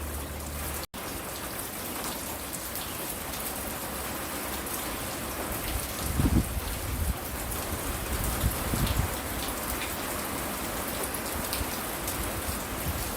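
Steady rain falling on a porch: an even hiss with scattered drip ticks, and a few low rumbles about six and nine seconds in. The sound cuts out for an instant about a second in.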